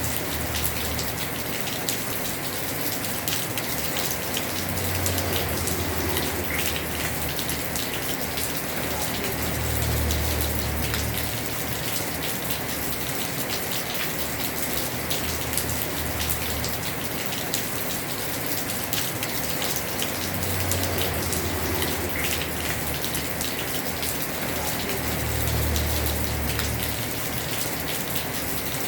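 Heavy rain pattering steadily on a house roof, a dense hiss with countless small drop ticks. A low rumble underneath swells and fades about every five seconds.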